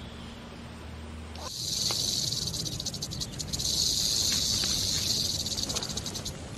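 A low steady hum, then, about one and a half seconds in, a high-pitched buzzing hiss cuts in, swells twice and eases off near the end.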